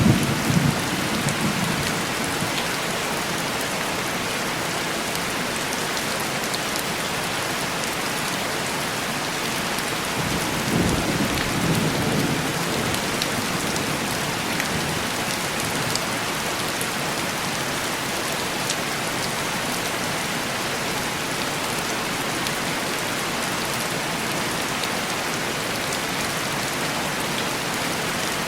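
Steady heavy rain on a window, with a low roll of distant thunder fading out at the start and another rolling past about ten seconds in.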